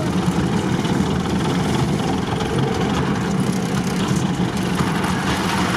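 Engine of an off-road vehicle running steadily at low speed, heard from inside its cab.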